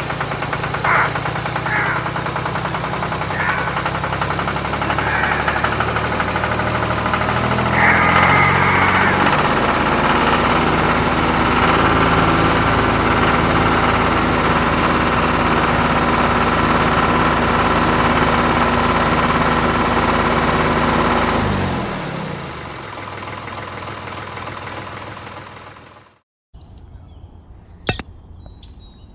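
An engine running steadily, with a few short high chirps over it in the first nine seconds. It dies down about 22 seconds in and cuts off a few seconds later.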